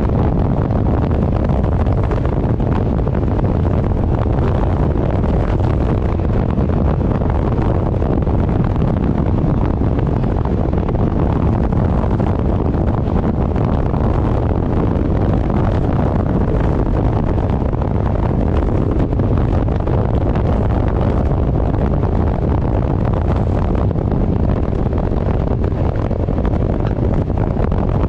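Heavy wind noise buffeting the microphone of a moving vehicle, with the vehicle's steady running beneath it.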